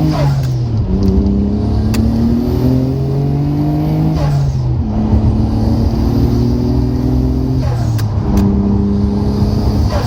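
Nissan Skyline GT-R's twin-turbo straight-six engine pulling hard through the gears. Its pitch rises steadily, then drops at each upshift: once near the start, once about halfway and once near the end.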